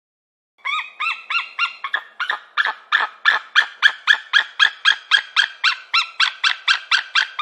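A peregrine falcon giving its harsh, rapid 'kak-kak-kak' call, about four short notes a second, starting about half a second in and keeping on without a break.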